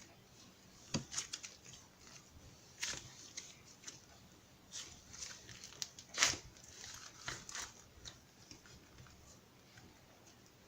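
Homemade slime being squished and pulled by hand, giving irregular soft crackles and sticky tearing clicks, the loudest a little past the middle.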